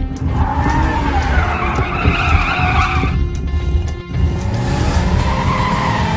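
Cartoon racing-car sound effects: tyres screeching for about three seconds and again near the end, over steady engine noise.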